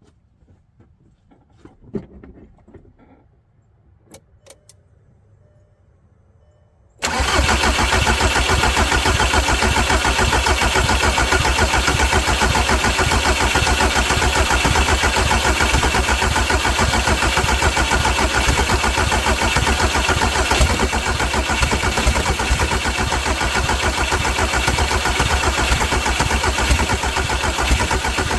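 A few light clicks and a knock, then about seven seconds in the starter begins cranking the Volkswagen Jetta TDI diesel engine, loud and steady, without the engine catching. The fuel injector lines are cracked open to bleed out air after a fuel filter change, so the engine is slow to fire.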